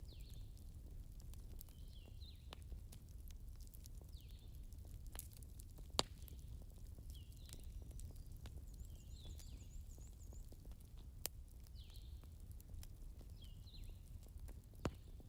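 Campfire crackling: scattered sharp pops, the loudest about six seconds in, over a steady low rumble. Short high falling chirps repeat about once a second, with a brief wavering high trill near the middle.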